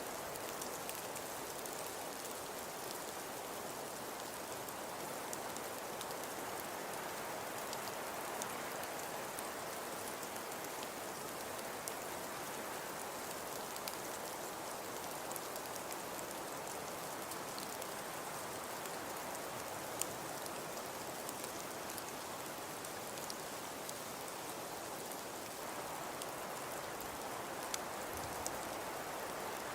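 Steady, even patter of countless fine drops or grains on a surface, like light rain or sleet, with scattered small ticks; it is offered as a snowfall and blizzard sound for relaxation.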